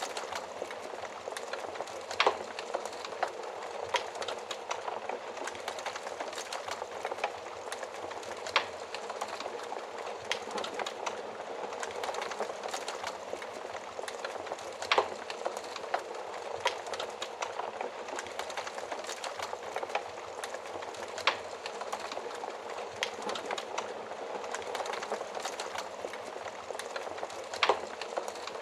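Wood fire burning in a fireplace oven, crackling steadily with a constant hiss and frequent small ticks, and a louder sharp pop every few seconds.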